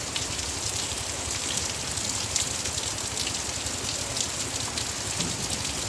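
Heavy rain falling steadily, a dense hiss with many separate drop ticks striking nearby surfaces.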